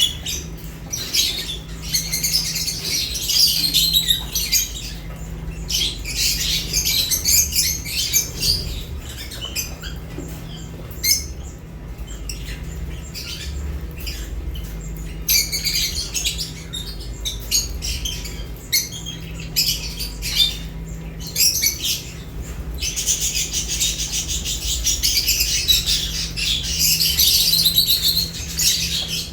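Lovebirds chirping and chattering in rapid, high-pitched bouts, several seconds each, with quieter spells between them, over a low steady hum.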